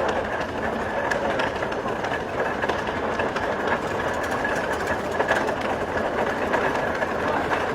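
Vintage tractor running, a steady mechanical clatter with many small clicks and rattles.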